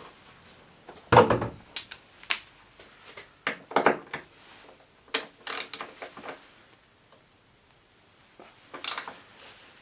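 Irregular knocks, clicks and rattles of tools and parts being handled during a strip-down, in short clusters with a quiet gap near the end.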